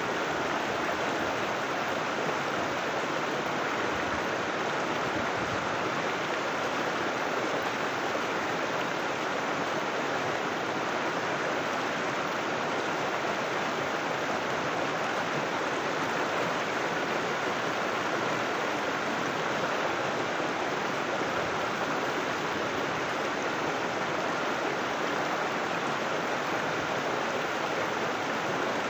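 River water flowing, a steady unbroken sound with no pauses or changes.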